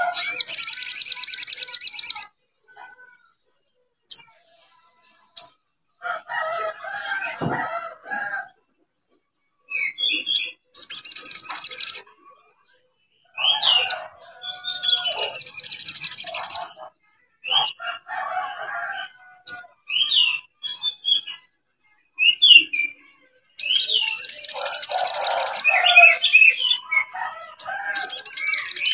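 Song of the sogon bird: repeated bursts of fast, high trills lasting one to two seconds each, interspersed with lower chattering and short whistled notes, with abrupt silent gaps between phrases.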